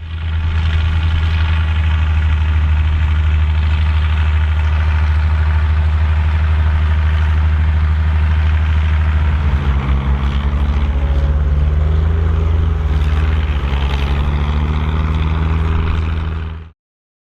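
Massey Ferguson 2680 tractor's diesel engine running steadily; about nine seconds in its note shifts as the engine speed changes, and it cuts off suddenly near the end.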